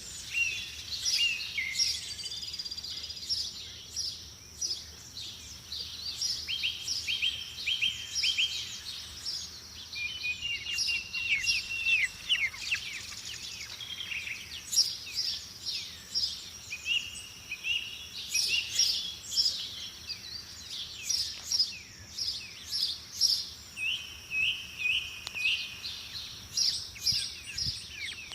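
Several birds singing and calling: many quick chirps and short runs of repeated notes, over a steady high-pitched tone.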